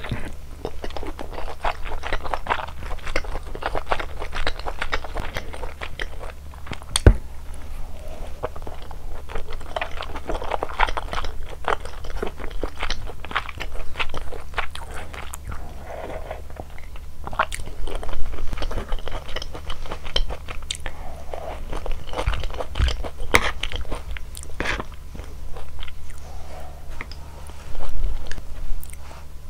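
Close-miked chewing of malatang, with many irregular crisp crunches and wet mouth sounds, as in eating-show ASMR. A sharp click comes about 7 seconds in, and a low steady hum runs underneath.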